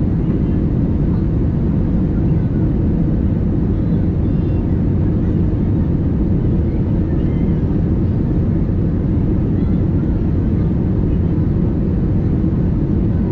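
Steady cabin noise inside an Airbus A320neo airliner in flight: a constant low rumble of engines and airflow with no change in pitch or level.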